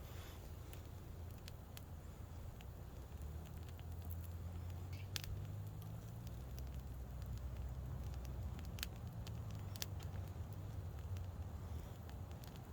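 Campfire of split firewood burning, with scattered sharp crackles and a few louder pops over a steady low rumble.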